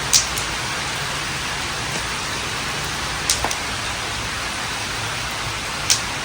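Steady rain falling, an even hiss with three sharp ticks spread through it.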